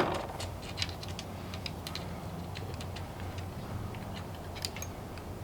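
Scattered light clicks and taps of small tools and parts being handled at the furnace's burner block, over a steady low hum.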